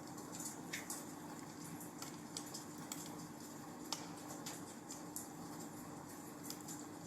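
Fireplace fire crackling: irregular sharp snaps and pops over a faint steady hiss, the loudest snap about four seconds in.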